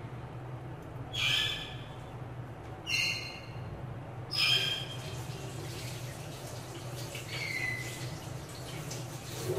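A bird calling three times, about a second and a half apart, with a fainter call later, over a steady low hum.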